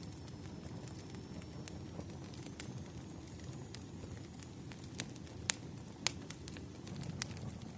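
Wood fire crackling: scattered sharp pops and snaps over a low, steady rumble of flame, with the loudest pops about five and a half and six seconds in.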